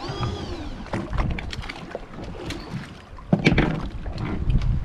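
Noise aboard a small fishing boat: a steady low rumble of wind and water, with scattered knocks and a loud knock about three seconds in.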